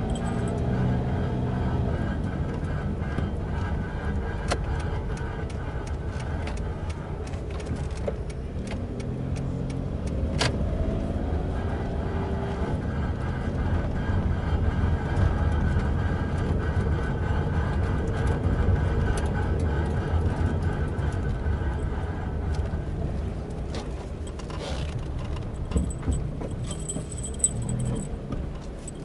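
2002 Suzuki Kei being driven, its engine rising in pitch as it speeds up near the start and again about ten seconds in, over steady road noise with a metallic jangling and scraping from the running gear. The noise comes from a brake disc rotor that rust has brought into contact, so it rubs as the wheel turns.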